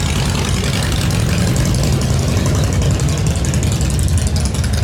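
Motorcycle engines idling with a steady, loud low rumble and a fast, even pulsing.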